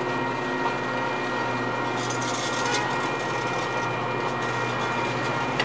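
Metra commuter train's diesel locomotive running steadily while stopped at the station, with a short hiss of air about two seconds in.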